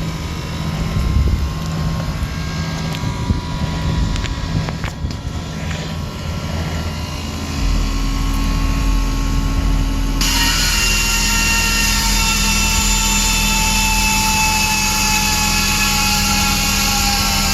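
Rooftop refrigeration and air-handling machinery running with a steady hum. A deeper hum joins about eight seconds in, and about two seconds later a loud rushing hiss starts, carrying a whine that slowly falls in pitch.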